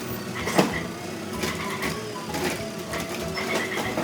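Fast-forwarded garbage truck collection sounds: the truck's engine and can-lifting mechanism sped up into a quick mechanical chatter, with a few sharp knocks.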